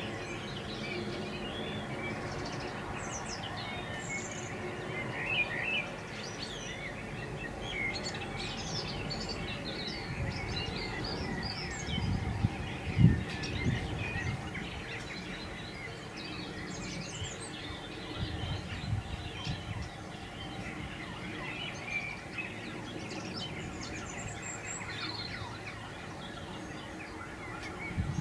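Birdsong in the open air: several small birds chirping and warbling on and off throughout. A few low thumps about halfway through.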